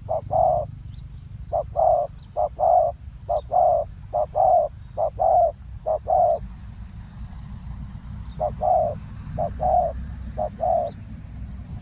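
Spotted dove cooing: two runs of short, quick coo notes, the second starting after a pause of about two seconds. A steady low rumble and faint high chirps of small birds lie underneath.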